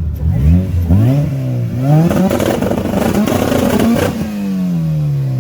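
A car engine revved in three quick blips, then held at high revs for about two seconds before the pitch falls away.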